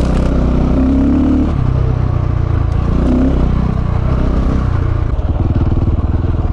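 KTM 690 Enduro's single-cylinder engine under a riding throttle, its pitch rising and falling over the first few seconds. It then settles to a slow, pulsing low-rev chug for the last second or so.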